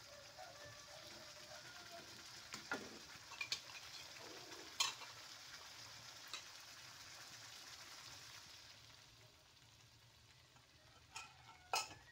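Red chili sambal sizzling as it fries in a wok, with a metal spatula stirring it and clinking against the pan several times. The sizzle dies down in the last few seconds.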